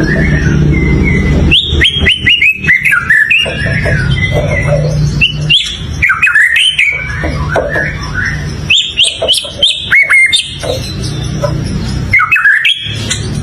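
White-rumped shama singing: phrases of rapid, clear whistled notes, many sliding down in pitch, coming in four bursts a few seconds apart, over a low steady hum.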